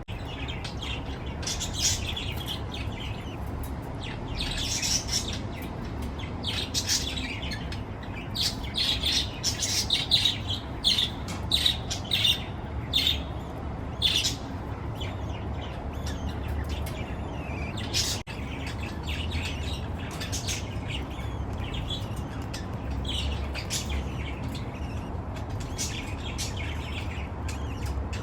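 Budgerigars chirping in many short, high calls, busiest in the middle, over a steady low hum.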